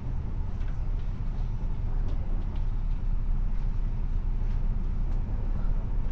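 Running sound of a JR Central 373 series electric train, heard inside motor car KuMoHa 373-5: a steady low rumble of wheels on rail, with a few faint clicks.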